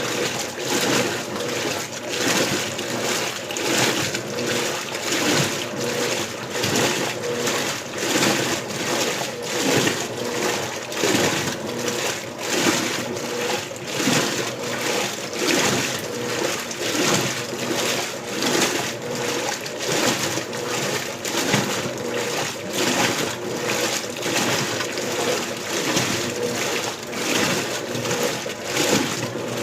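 Electrolux Blue Touch Ultra Clean 15 kg top-loading washer agitating its load in water during the rinse, on turbo agitation, with rhythmic sloshing and splashing that surges each time the agitator swings.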